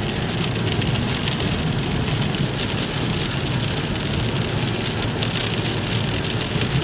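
Steady rain falling, a constant hiss with many small drop hits.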